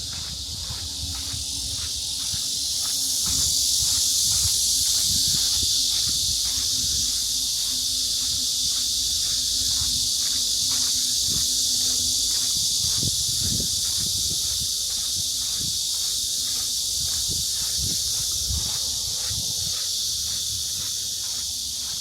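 Summer cicada chorus, a steady high-pitched buzzing that swells a few seconds in, with regular light footsteps about twice a second.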